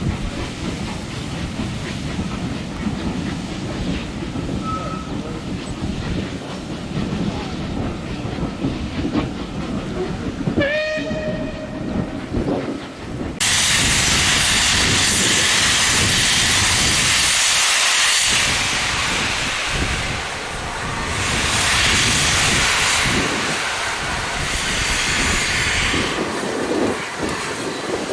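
A Bulleid steam locomotive, a low rumble at first, sounds its whistle once about ten seconds in: a single steady note lasting about two seconds. A couple of seconds later a loud hiss of escaping steam starts suddenly and carries on, swelling and easing, to the end.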